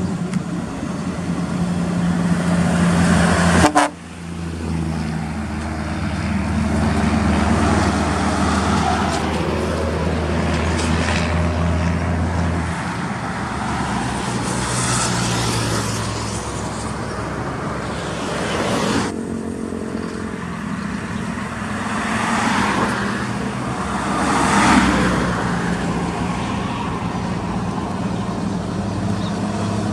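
Heavy trucks running, with vehicle horns sounding. The sound changes abruptly about four seconds in and again around the middle, as from separate clips joined together.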